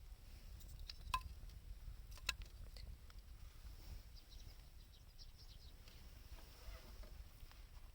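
Wood fire crackling faintly, with two sharper pops about a second and two seconds in and smaller ticks after, over a low steady rumble.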